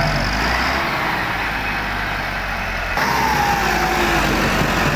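Tractor diesel engine running steadily, with abrupt changes in the sound about a second in and again at three seconds.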